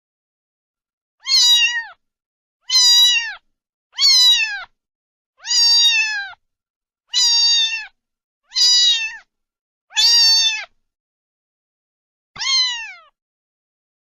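A cat meowing over and over: eight high meows, each under a second with a pitch that drops at the end, about one every second and a half, the last one after a longer pause.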